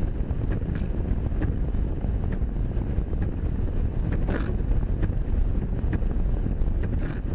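Wind blowing over the microphone, a steady low rumble with faint scattered ticks.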